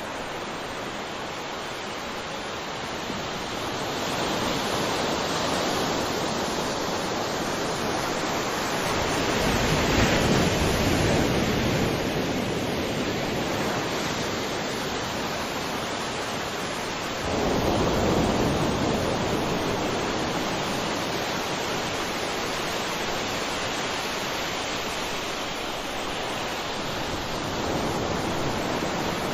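Ocean waves breaking and washing in, a steady surf hiss that swells and ebbs, with a heavier wave crashing in suddenly partway through.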